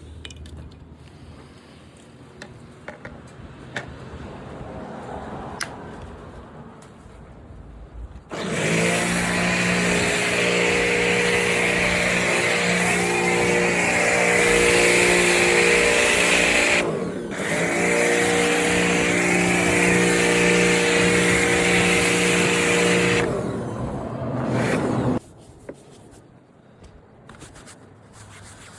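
Pressure washer running and spraying: a steady motor hum under a loud hiss of the water jet, starting about eight seconds in and breaking off briefly midway. The spray stops a couple of seconds before the motor cuts out abruptly.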